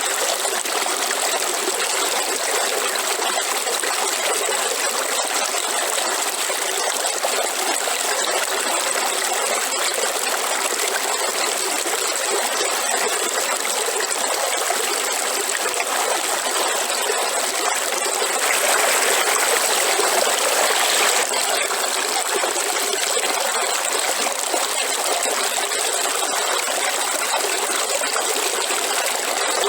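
Waterfall water rushing in a steady, even roar, briefly louder for a few seconds about two-thirds of the way through.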